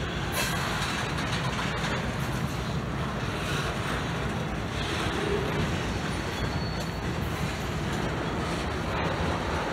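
Double-stack intermodal container train rolling past, a steady noise of its cars' steel wheels on the rails.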